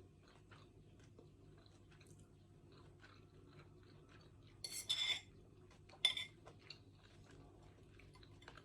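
Cutlery against a plate during a meal: faint small clicks, with two louder clinks of metal on dishware about five and six seconds in.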